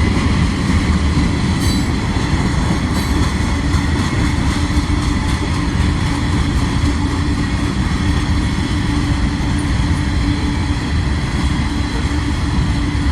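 Freight train rolling past: a steady low rumble of the cars with a steady hum over it.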